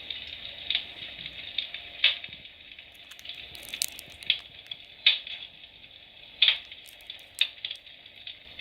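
The electric fireplace's built-in firewood-crackling sound effect plays from its small speaker: a steady, thin crackling hiss with irregular louder pops, several a few seconds apart.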